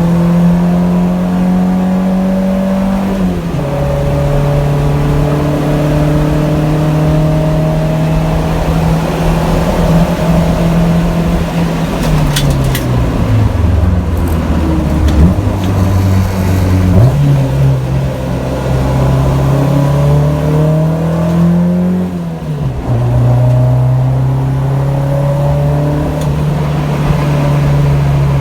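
Honda Civic's JDM D16A four-cylinder engine running through an HKS Hi-Power exhaust while driving. The engine note climbs slowly under light throttle and drops sharply at gear changes, about three seconds in and again near the end. In the middle it sags low for a few seconds, then jumps back up.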